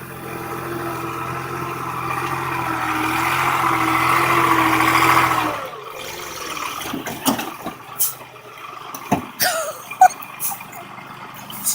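A heavy vehicle's engine running steadily, growing louder for about five and a half seconds and then cutting off abruptly. Scattered knocks and clicks follow.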